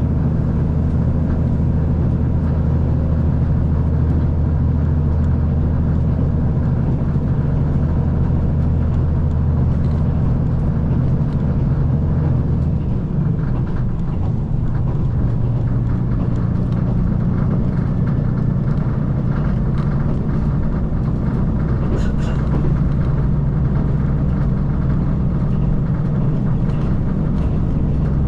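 KiHa 185 series diesel railcar running at speed, its diesel engine note and rail running noise steady, with the engine's pitch shifting about halfway through.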